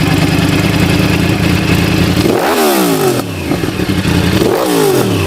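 Sport motorcycle engine running through its exhaust at a steady idle, then given two quick throttle blips, the note rising sharply and falling back each time, about two seconds in and again near the end.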